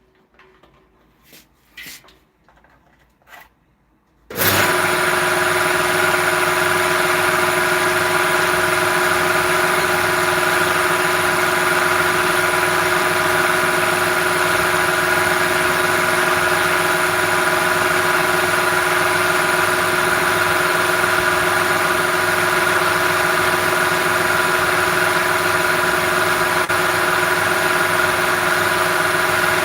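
A few faint clicks, then about four seconds in a mains-powered electric machine is switched on and runs at a steady pitch with a whine, starting suddenly at full loudness.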